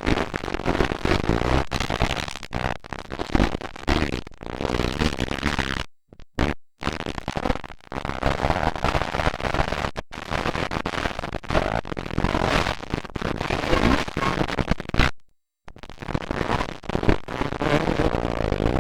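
Several motocross dirt bike engines running hard, with a dense crackle and revving. The sound cuts out completely twice for under a second.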